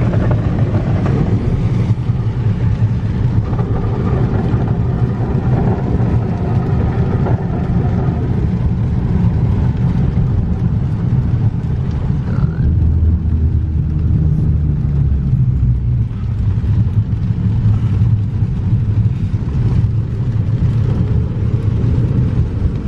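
Steady low rumble of a car on the move, engine and road noise heard from inside.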